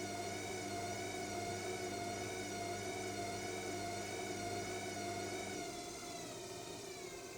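AEG washing machine's drum in its high-speed final spin, the motor whining at a steady pitch that wavers slightly. About five and a half seconds in the low hum drops away, and near the end the whine starts to fall in pitch as the spin begins to wind down.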